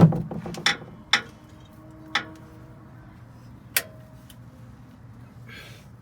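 Several sharp metallic clinks and knocks, a few of them ringing briefly, as metal tools or parts are handled during work on a pickup truck's oil change.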